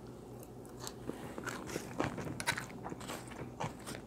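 A mouthful of salad greens being bitten and chewed close to a clip-on microphone: many short, crunching clicks, several a second.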